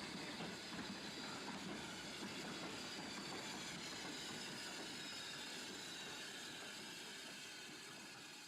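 A train running along the line, a steady rumble and hiss that slowly fades out near the end.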